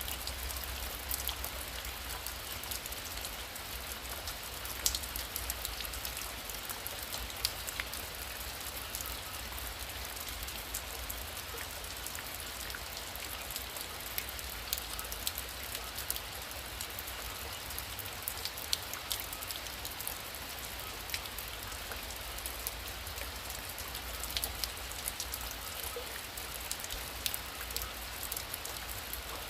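Heavy rain falling steadily, with many sharp drop ticks scattered through a constant hiss and a low rumble underneath.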